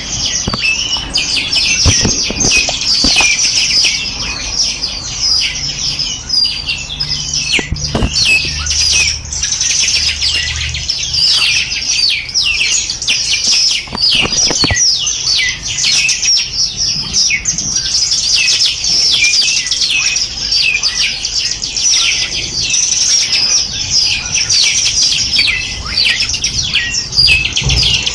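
A dense chorus of many small songbirds chirping and trilling without a break, short high notes overlapping one another. A few soft knocks come through, about two, eight and fourteen seconds in.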